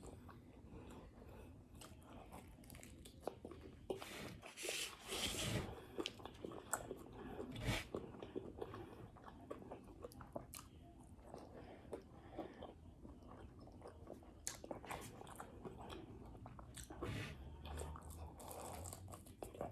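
A person chewing and crunching a breakfast of eggs, grits and crisp well-done bacon, with soft mouth clicks throughout and a louder crunchy bite about five seconds in and another near eight seconds.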